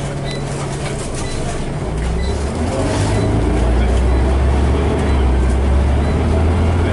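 Scania N94UB Omnicity bus engine heard on board, a steady hum that gives way about two seconds in to a deeper, louder drone as the engine takes load.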